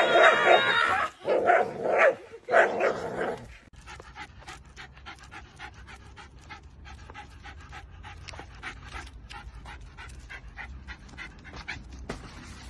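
A dog gives about four loud calls in the first few seconds, then pants quickly with short, quiet breaths.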